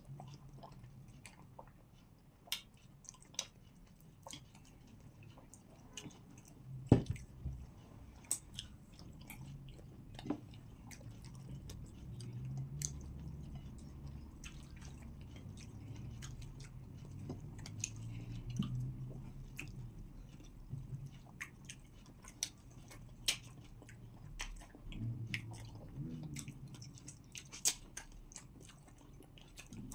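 People chewing and swallowing pounded yam with okra soup, eaten by hand: wet mouth sounds with many scattered sharp smacks and clicks. The loudest smack comes about seven seconds in.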